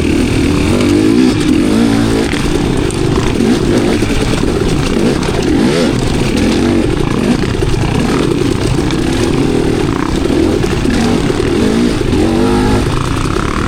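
Enduro dirt bike engine running hard on trail, its pitch rising and falling constantly as the throttle is worked on and off.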